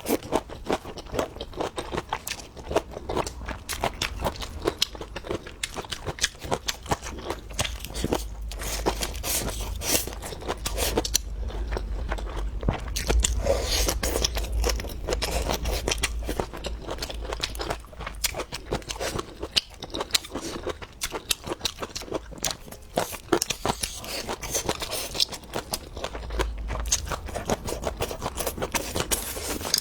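Close-miked eating: a continuous run of crunchy bites and chewing, with a low rumble underneath from about eight to seventeen seconds in.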